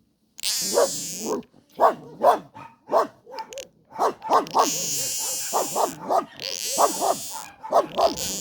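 A pet animal calling noisily: a rapid run of short bark-like calls broken by long hissing stretches.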